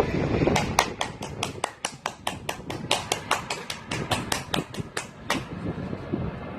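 Hand clapping by one or a few people: a quick, even run of about six claps a second that starts about half a second in and stops after about five seconds.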